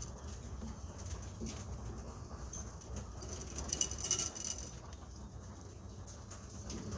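Pigeons moving about in the loft, with a short flurry of wing flapping and clatter about three and a half seconds in.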